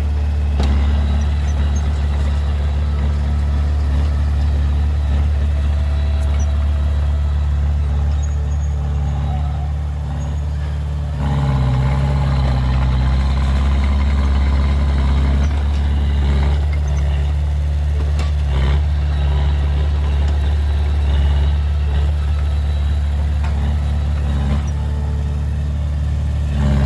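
Large diesel engine of heavy earthmoving machinery running steadily with a deep, even hum, growing slightly louder and busier about eleven seconds in.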